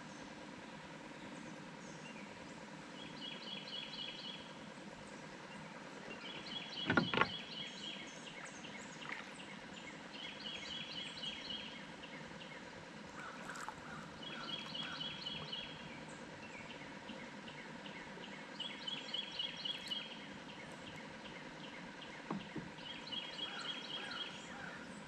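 A songbird repeating a short, rapid trill every few seconds over quiet outdoor background. A single sharp knock about seven seconds in is the loudest sound.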